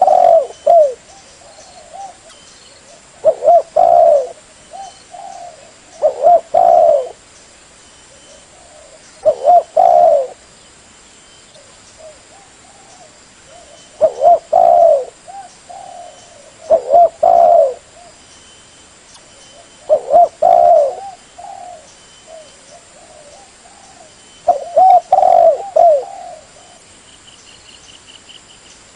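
Spotted dove (tekukur) cooing as a lure call: a phrase of coos repeated about every three seconds, eight times, with softer notes between the phrases.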